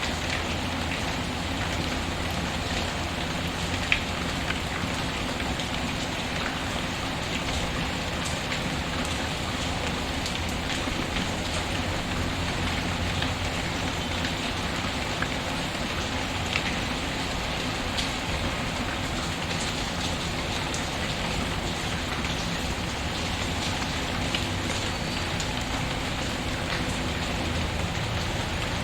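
Steady rain pattering, with a few sharp pops from a crackling wood fireplace; the loudest pop comes about four seconds in.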